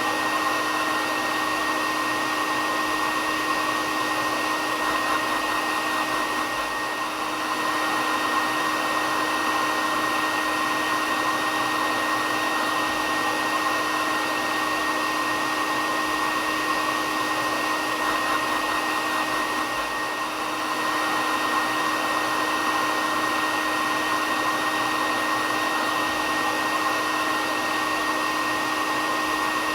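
Hair dryer running steadily: a constant rush of air with a low hum and a higher whine held on one pitch. It dips slightly in level twice.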